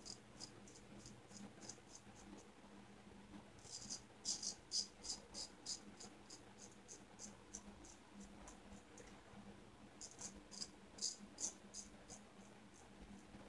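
Shavette razor, a Shear Mattaki holding a Gillette Wilkinson Sword blade, scraping through stubble in quick short strokes, about four or five a second. The strokes come in three runs with pauses between, the middle run the loudest.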